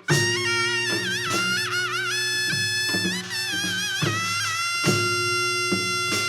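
Korean traditional music for a Jindo drum dance. A reedy wind instrument plays a bright melody with wavering, bending notes over a low drone, and drum strokes fall about once a second.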